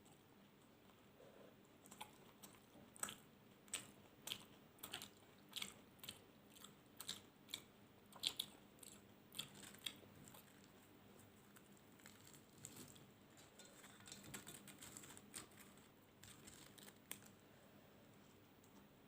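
Close-miked chewing and biting of food, with crisp mouth clicks coming about twice a second for several seconds, then softer, wetter chewing in the second half.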